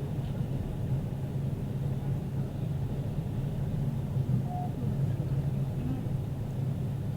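Diesel railcar engine idling with a steady low hum while the train stands at a station.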